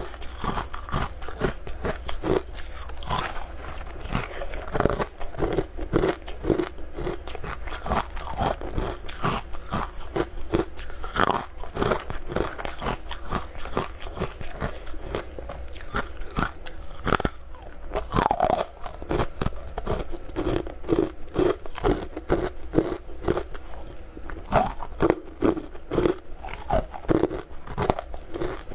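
Close-up eating sounds: a person biting and chewing hard, crunchy translucent amber chunks, with rapid irregular crunches all through.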